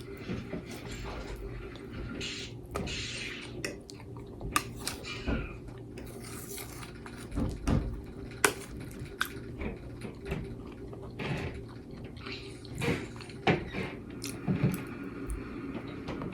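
Cutlery clicking and scraping on a plate at irregular moments, with chewing between them.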